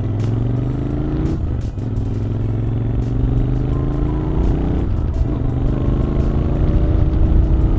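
Cafe racer motorcycle engine accelerating through the gears. Its pitch climbs, drops at a gear change about a second and a half in and again near five seconds, then climbs again.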